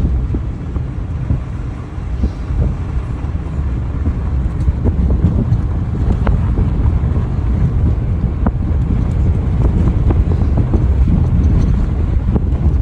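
Steady low vehicle rumble with heavy wind buffeting on the microphone, and a few faint clicks.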